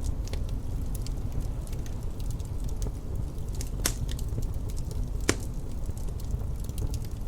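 Wood fire crackling in a fireplace: many small crackles and two louder pops a second and a half apart, over a steady low rumble.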